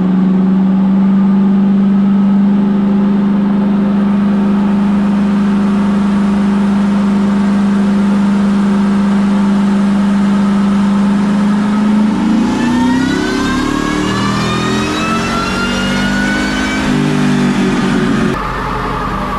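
Ford Lightning's supercharged 5.4 V8 on a chassis dyno. It runs at a steady drone for about twelve seconds, then goes into a full-throttle pull with rising revs and a rising high-pitched supercharger whine, and cuts off sharply near the end.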